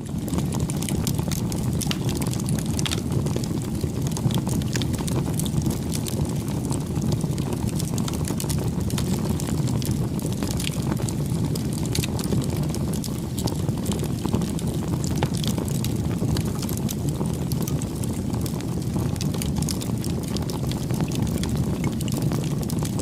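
Bonfire burning: a steady low rush of flames with frequent small sharp crackles and pops from the burning wood.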